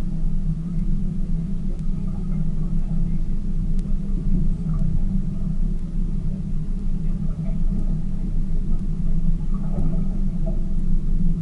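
A tour boat's engine running steadily, heard from aboard as a continuous low rumble.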